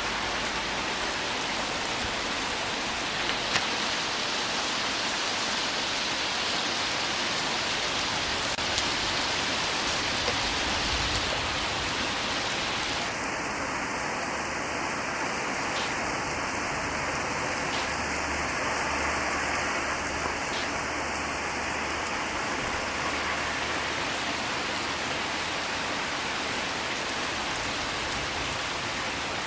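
Heavy downpour: a steady, dense hiss of rain falling on grass, graves and trees.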